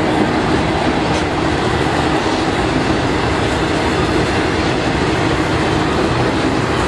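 Coal train's hopper cars rolling past on the main line: a steady, loud rumble of steel wheels on the rails.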